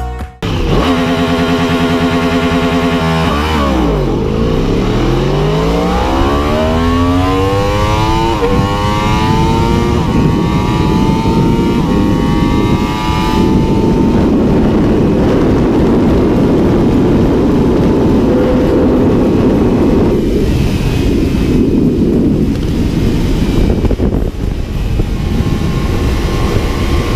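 A 1000 cc superbike accelerating flat out from a standstill. The revs are held steady at the start, then the engine pitch climbs through the gears and drops back at each upshift. From about halfway, the sound gives way to a steady rush of engine and wind noise at very high speed.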